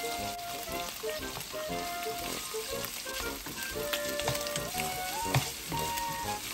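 Pork cubes and freshly added chopped onions sizzling in hot oil in a frying pan, stirred with a plastic spatula that scrapes and clicks against the pan now and then. Background music plays over it.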